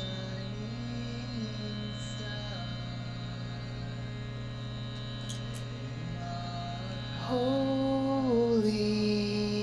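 Steady electrical mains hum under faint sustained tones, with a voice toning long held notes that step down in pitch, louder from about seven seconds in.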